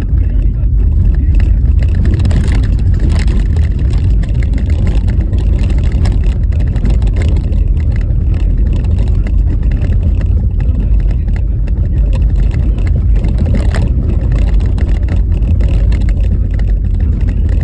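Car driving on a rough, snow-covered road: a loud, steady low rumble of road and wind noise with frequent small knocks and rattles from the uneven surface.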